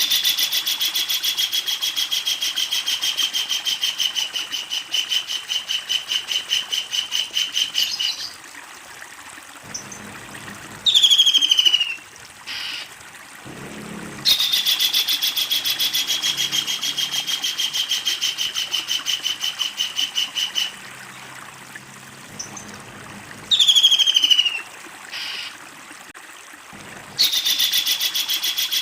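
Kingfisher calling: a long run of rapidly repeated notes, about three or four a second, held for seven or eight seconds. Short, loud falling notes sound between the runs, and the runs come three times.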